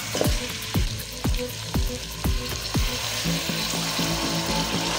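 Chicken and masala frying in oil in a pot, a steady sizzle with fine crackles as it is stirred. Background music runs under it, with a bass beat about twice a second that drops out a little after three seconds in, leaving held notes.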